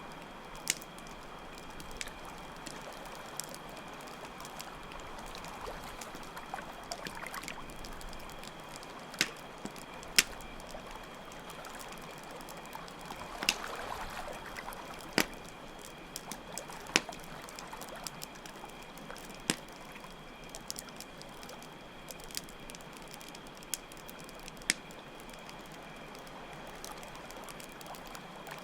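Ambience of a crackling campfire, with irregular sharp pops over a steady trickle of running water and a constant high drone of chirping crickets.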